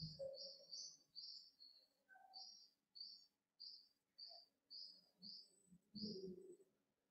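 Faint, steady series of short high chirps, about two a second, from a bird, over otherwise near-silent room tone.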